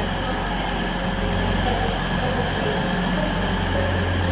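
A train running with a steady low hum.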